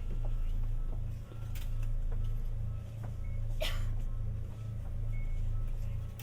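Onboard sound of a Tokyu Setagaya Line 300 series light-rail car: a steady low rumble that swells and eases every second or so, with one brief sharp, higher sound about three and a half seconds in.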